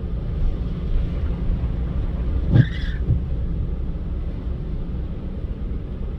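Car driving, with a steady low rumble of road and wind noise. A brief high-pitched sound cuts in about two and a half seconds in.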